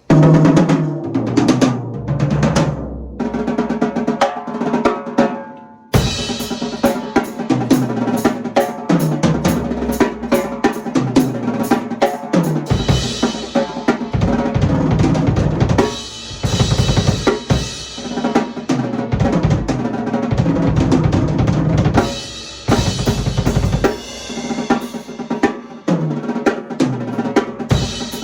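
Canopus mahogany drum kit being played: single drum hits with falling pitches in the opening seconds, then from about six seconds in a full groove of bass drum, snare and cymbals.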